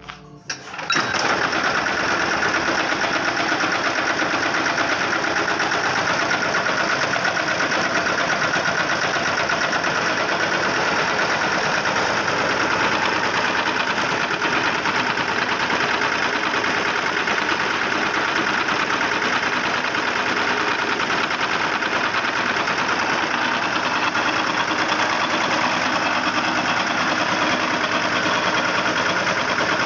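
Lombardini 3LD510 single-cylinder air-cooled diesel engine running steadily at an even speed. It comes in suddenly about a second in.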